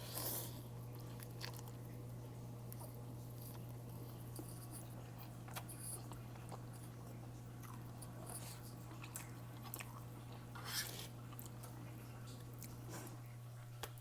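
A person chewing and eating spicy ramen, with soft, scattered mouth clicks and a few louder bites, over a steady low hum.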